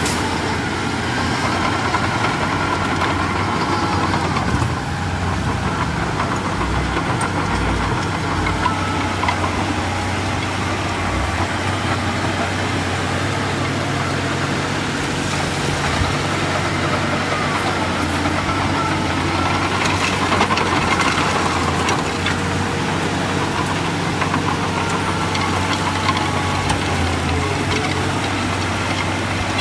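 Diesel engine of heavy earthmoving machinery running steadily under work, with a higher whining tone that rises and falls at times above it.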